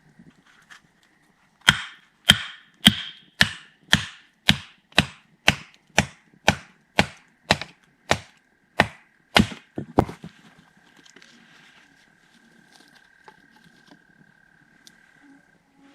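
Wood being chopped: about fifteen sharp, even strikes, roughly two a second, stopping about ten seconds in.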